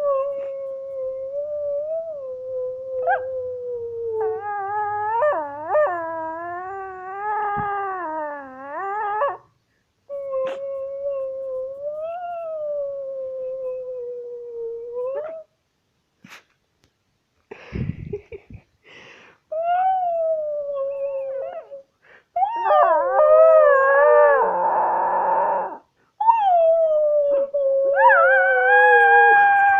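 A pet dog howling: a series of long, drawn-out howls with wavering, gliding pitch, broken by short pauses, as the dog answers its owner's calls.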